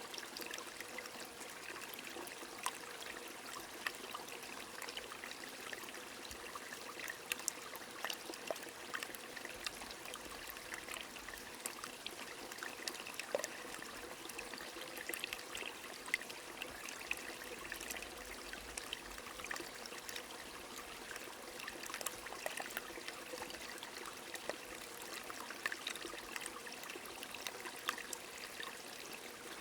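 A small stream trickling steadily under light rain, with scattered sharp drips of raindrops throughout.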